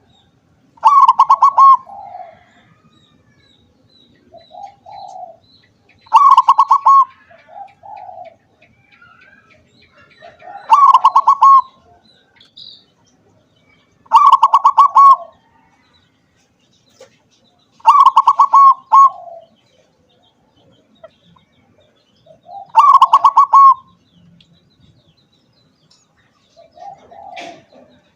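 Zebra dove (perkutut) singing its pulsed, bubbling coo phrase six times, about every four to five seconds, with softer low coos between the phrases.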